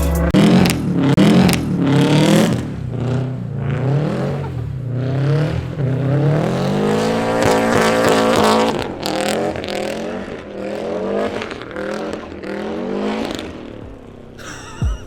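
Car engine revving hard, its pitch rising and falling several times, with one long climb in the middle. It fades away near the end.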